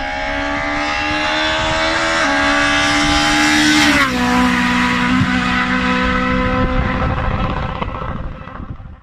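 Race car engine at high revs, its pitch climbing slowly with a small step about two seconds in, then gliding sharply down about four seconds in and holding a lower, steadier note before fading out near the end.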